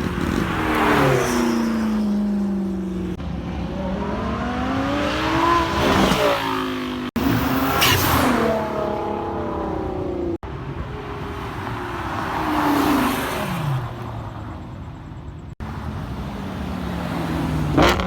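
Performance cars accelerating past one after another, each engine note climbing and then dropping sharply in pitch as the car goes by. The clips are cut together abruptly, about five passes in all, and the loudest pass comes near the end.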